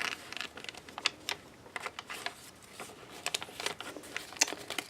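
Paper pages of a handmade mixed-media journal being turned and handled: irregular rustles and small clicks of paper, card and envelopes.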